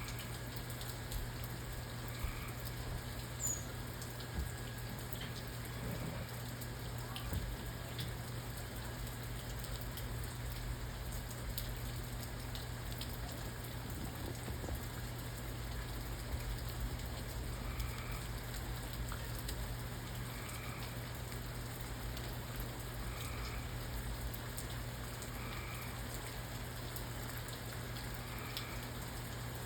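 Steady rain falling, with scattered drops ticking on a surface over a low steady hum. In the second half, a faint call repeats every two to three seconds.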